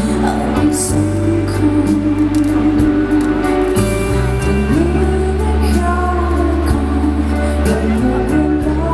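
Live band music from a pop concert performance of a song.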